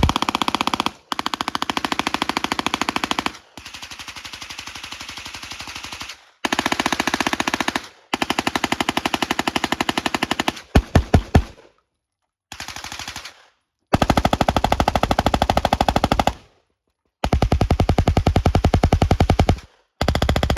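MP5-pattern submachine guns firing long fully automatic strings in quick succession, a steady rapid rattle of shots broken by short pauses. One string is quieter, and a few louder, more widely spaced shots come about halfway through.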